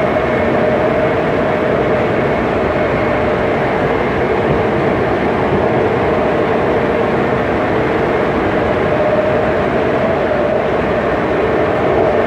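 BART train cars running at speed, heard from on board: a steady loud rail noise with a constant whine running through it.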